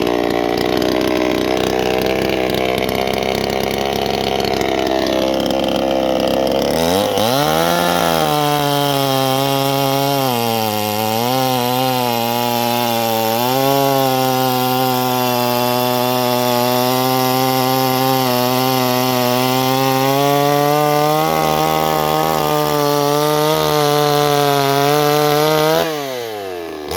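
Two-stroke chainsaw cutting pine wood at high revs. It starts as a rough, noisy cut, then settles into a steady high engine whine that dips twice under load, and the revs fall away just before the end.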